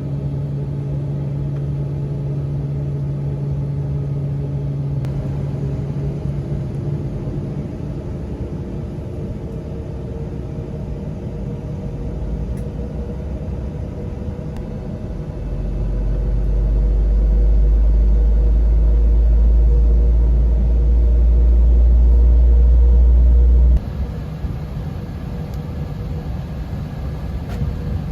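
Airbus A321 cabin noise on the ground: the steady hum and rumble of idling jet engines and air systems heard from inside the cabin. Past the middle a deep low rumble swells up and holds, then cuts off abruptly near the end.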